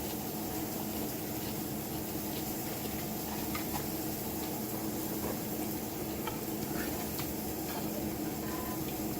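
Steady kitchen background noise: an even hiss over a low steady hum, with a few faint scattered ticks.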